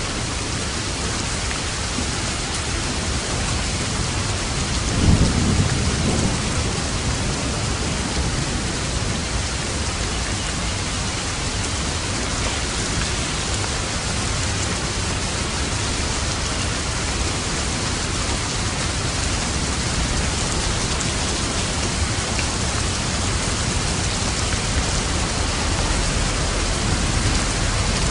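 Steady heavy rain with a low rumble of thunder about five seconds in.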